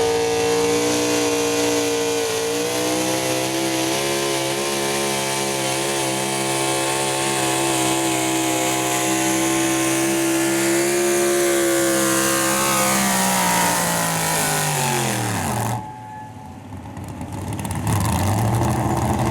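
Super stock 4x4 pulling truck's engine held at high revs under load, then dropping quickly in pitch and cutting off about three-quarters of the way through. After a short lull a lower engine note rises near the end.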